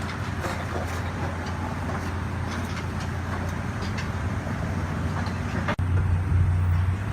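Steady low rumble of a car running, with light scattered clicks over an even background noise. About six seconds in the sound drops out for an instant, and the low rumble comes back louder.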